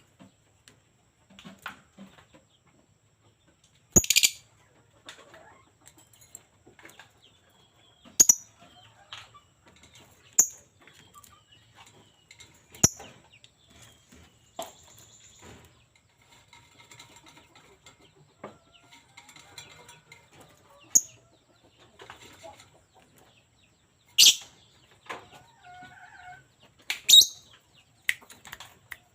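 Lovebird giving short, shrill chirps every few seconds, with faint chatter in between.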